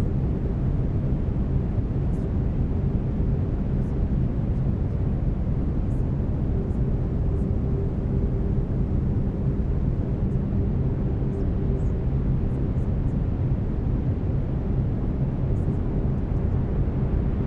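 Steady brown noise: a deep, even rumbling hiss. Faint steady low tones run under it, the binaural-beat tones mixed into the track.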